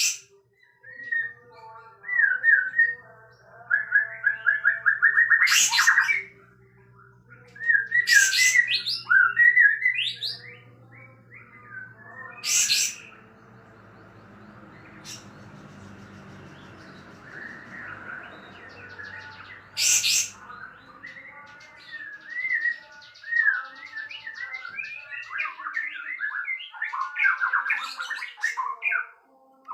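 Sooty-headed bulbul singing in bursts of quick chirping, warbled phrases, broken by several sharp, loud notes.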